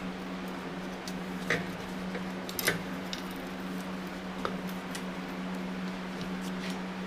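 Scattered small metallic clicks and clinks of tools and engine parts being handled, two of them louder, over a steady low hum.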